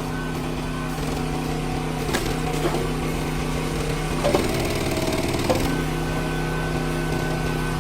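Small petrol engine of a hydraulic log splitter running steadily while a log cracks and splits: sharp cracks about two seconds in, then a louder stretch of wood cracking and splintering from about four to five and a half seconds, the engine note wavering under the load.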